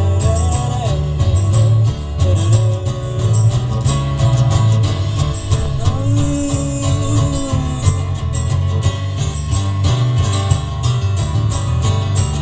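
Live rock band playing an instrumental passage of a song: a steady, fast drum beat over bass and guitar, with held melody notes.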